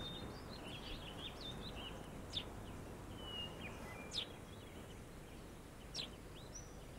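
Small birds chirping and twittering over a steady low background hiss, with a sharp down-slurred call about every two seconds.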